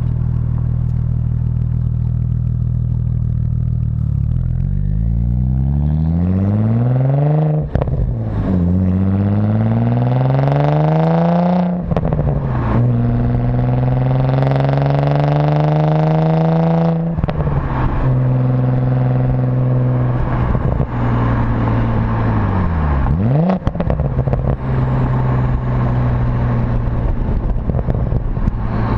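Tuned Audi S4 with an aftermarket dual exhaust accelerating hard through the gears: the engine note climbs, drops sharply at a shift, and does so three times. It then settles to a steady cruise, with one quick dip and rise in pitch later on.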